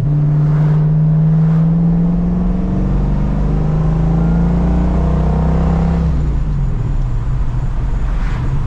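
1970 Plymouth Hemi 'Cuda's 426 Hemi V8 pulling under way, heard from inside the cabin. The engine note climbs a little and holds, then falls away about six seconds in.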